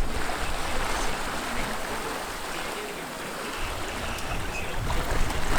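Steady rushing of water along a sailboat's hull under sail, with a low rumble swelling in the second half.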